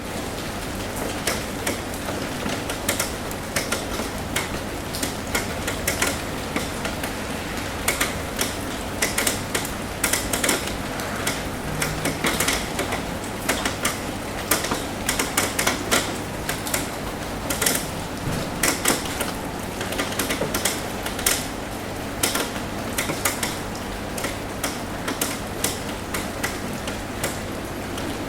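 Rain tapping on a roof: dense, irregular drops striking the roof over a steady hiss of rainfall.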